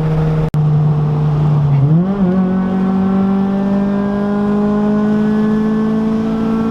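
Car engine heard from inside the car, running steadily. About two seconds in its pitch jumps up, as on a downshift, then climbs slowly as the car accelerates.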